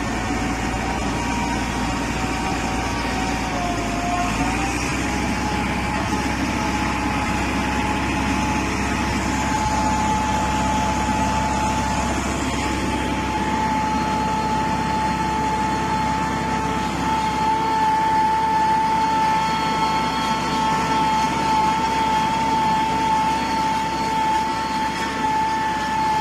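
Bull Power 577 tractor's diesel engine running steadily under load while pulling a 14-disc harrow. Its pitch rises slightly about four seconds in and then holds.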